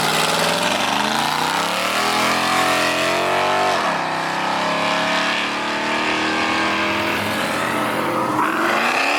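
A car engine accelerating hard under full throttle. The revs climb for about three and a half seconds, drop sharply at a gear change, hold, then drop and climb again at another shift near the end.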